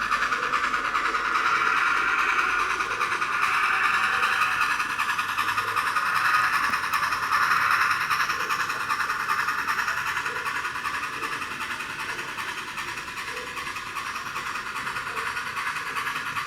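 An N scale model train running on the layout's track: a steady high whir from the small locomotive and its wheels on the rails, with faint regular clicks. It grows a little louder toward the middle and fades somewhat in the second half.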